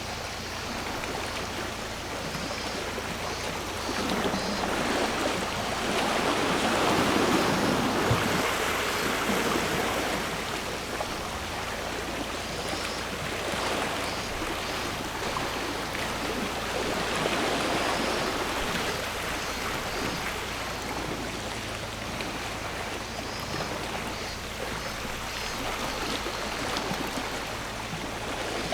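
Sea waves washing onto the shore in slow swells. The biggest surge comes a quarter of the way in and a smaller one just past the middle, over a steady wash of surf.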